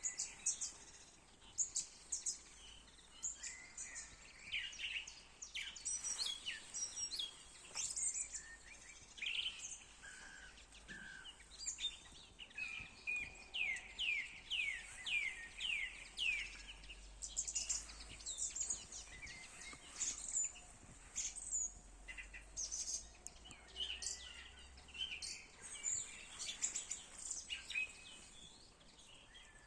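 Several songbirds singing at once, a spring chorus of overlapping chirps and song phrases, with a quick run of falling notes about halfway through.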